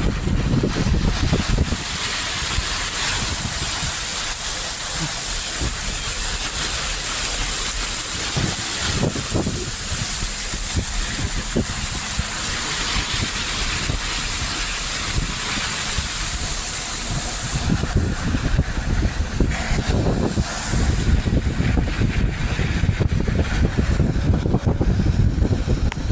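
Heavy rain hissing steadily, mixed with low rumbling from traffic and wind on the microphone. The high hiss thins out after about seventeen seconds, and the rumbling grows stronger near the end.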